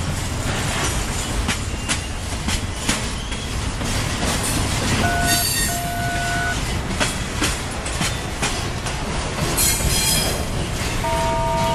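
Double-stack intermodal freight train's well cars rolling past: steady wheel-on-rail rumble with quick clicks of wheels over rail joints. A brief high steel wheel squeal comes about five seconds in, in two short parts, and more squealing tones sound near the end.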